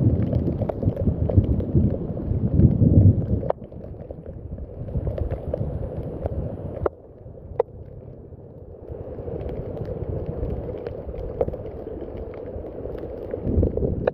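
Rain falling, with scattered sharp clicks of drops. A heavier low rumble fills the first three and a half seconds and cuts off abruptly, and the sound drops quieter again about seven seconds in.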